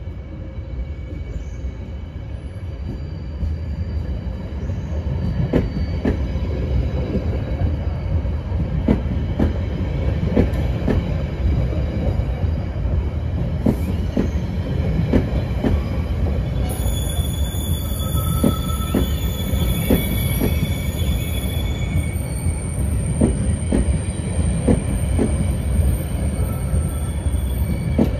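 Passenger train coaches backing slowly past, with a low rolling rumble and wheels knocking over rail joints about once a second, growing louder as the train draws near. From a little past the middle, high-pitched wheel squeal joins in and continues to the end.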